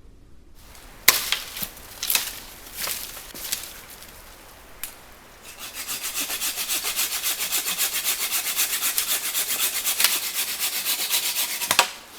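A few sharp knocks, then fast, even back-and-forth sawing strokes, about seven a second, for roughly six seconds before stopping abruptly.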